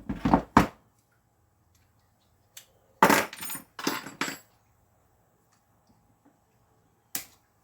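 Packaging of a power-tool kit being handled and opened: two short clattering rattles about three seconds in, and a single sharp click near the end.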